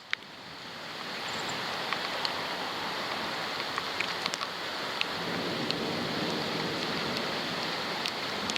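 Heavy rain pouring down in a steady hiss that swells over the first second, with scattered sharp ticks of drops striking the waterproof camera.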